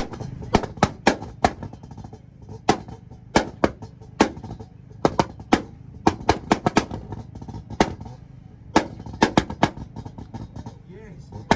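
Mazda Miata's four-cylinder engine held on a two-step launch limiter, the exhaust popping and banging in sharp, uneven cracks over a low engine rumble.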